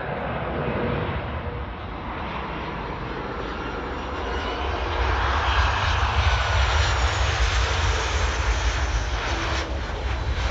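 Jet airliner's engines going past close by, a loud rushing noise with a deep rumble and faint gliding whines, growing louder about halfway through.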